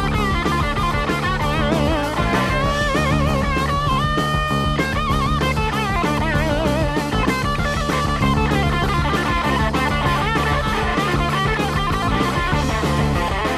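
Hard rock recording with an electric lead guitar playing a solo, its notes wavering with wide vibrato, over a steady drum beat.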